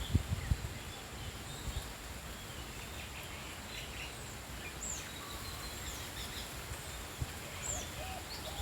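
Small birds chirping and calling, with many short chirps and quick falling whistles scattered throughout, over a steady high-pitched drone. A few low thumps right at the start.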